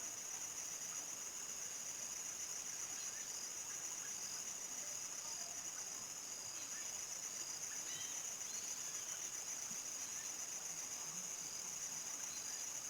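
Crickets chirping in a steady, high, finely pulsing chorus, with a few faint scattered calls under it.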